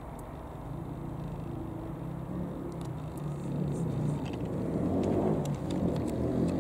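An engine drones steadily and grows louder toward the end as it approaches.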